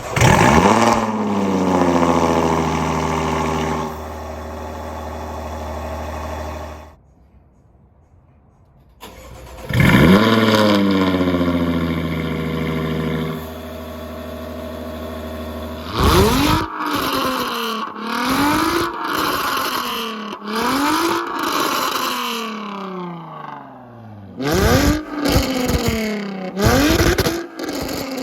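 Jaguar F-Type V6 S's supercharged 3.0 V6 through catless downpipes, straight pipes and TotalFlow mini mufflers: it starts with a rev flare that falls back to idle, is shut off, starts again and settles to idle. It is then revved again and again in rising and falling blips that come quicker near the end.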